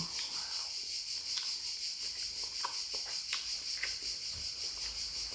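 Quiet eating sounds, soft clicks and smacks of chewing and a spoon, over a steady high-pitched chorus of crickets.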